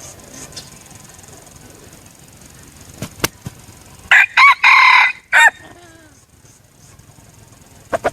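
Red junglefowl decoy rooster crowing once: a short, clipped crow in four parts starting about four seconds in. A sharp click comes just before it.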